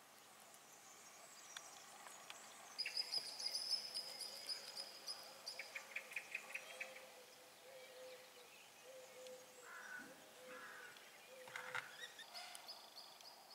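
Faint bird calls: a high thin whistle with a quick trill about three seconds in, then a fast run of chirps, and more short calls near the end, over a faint steady hum.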